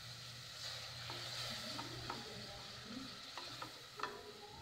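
Spiced onion-tomato masala frying quietly in oil in a metal pot, sizzling while a wooden spoon stirs it, with a few light knocks of the spoon against the pot.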